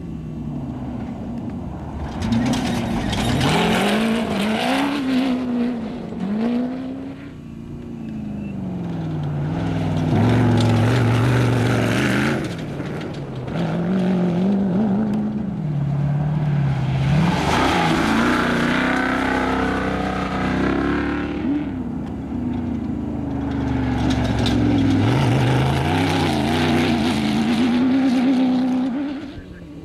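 Off-road race vehicles passing one after another at speed, engines revving up and down through gear changes, with loud noise from tyres on the dirt course. About four loud passes, each swelling and fading.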